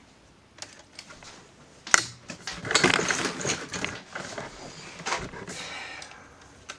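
Small hard objects clattering as someone rummages among tools. There is a sharp click about two seconds in, then a second or two of busy rattling, then a few lighter knocks.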